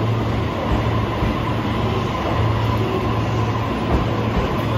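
E257 series 500 electric limited express train pulling out of the platform and running past: a steady rumble of the moving cars with a steady whine over it.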